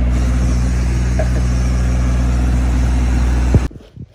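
Mini excavator's diesel engine running steadily with a low, even drone; it cuts off abruptly about three and a half seconds in.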